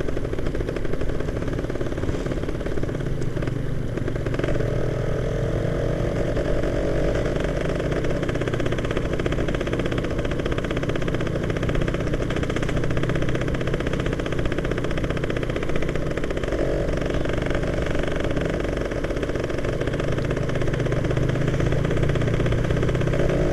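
Yamaha F1ZR two-stroke motorcycle engine running steadily while being ridden, its pitch shifting a few times, with road and wind noise.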